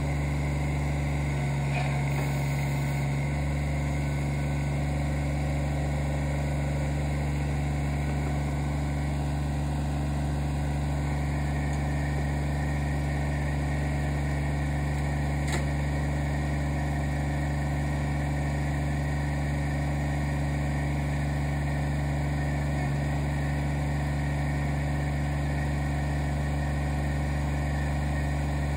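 Kubota BX25D compact tractor's small three-cylinder diesel engine idling steadily.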